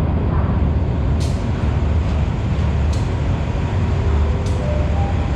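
Steady low rumble of a train at a station platform, with three short sharp clicks about a second, three seconds and four and a half seconds in.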